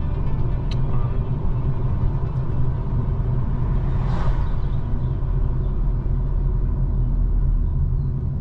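A car being driven, heard from inside the cabin: a steady low rumble of engine and road noise, with a brief swish about four seconds in.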